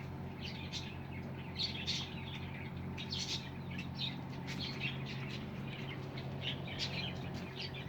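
Small birds chirping over and over in quick short calls, with a steady low hum underneath.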